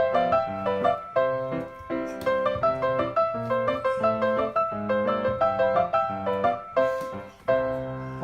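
Background music led by piano: a lively run of short notes played in quick succession.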